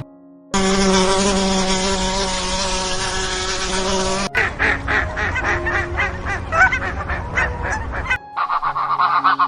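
A steady, even buzzing drone for about four seconds, like an insect in flight, then a quick run of repeated honking waterfowl calls. Near the end a different, lower run of rapid calls takes over.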